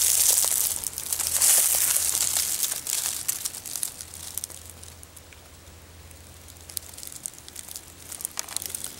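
Rustling and crackling, loudest in the first three seconds, then fainter with scattered sharp crackles.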